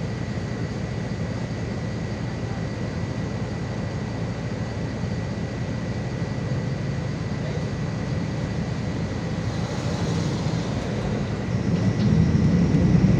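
MAZ 216.066 city bus under way, heard from inside: a steady engine and road rumble with a thin constant whine. There is a short hiss about ten seconds in, and the rumble grows louder about twelve seconds in.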